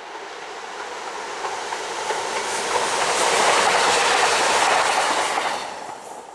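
Stadler Flirt bimodal diagnostic train passing on the track, the rumble of its wheels on the rails swelling to its loudest from about three to five seconds in as it goes by, then fading.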